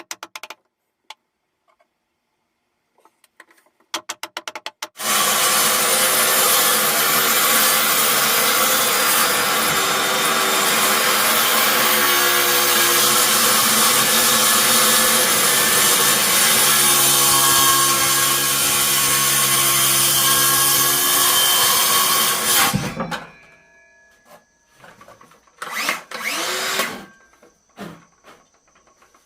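Electric power tool motor starting about five seconds in and running for roughly seventeen seconds, its pitch shifting slightly as the load changes, then winding down with a falling pitch. A few light clicks come before it starts.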